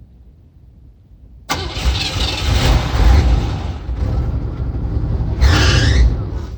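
Classic Cadillac engine being cranked on the starter during a hard start: a sudden start about a second and a half in, about five seconds of cranking with a surge near the end, then it stops and the engine does not run on.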